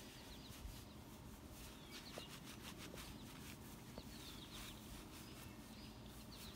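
Faint bird chirps, a few short groups of high, falling notes, over a quiet background.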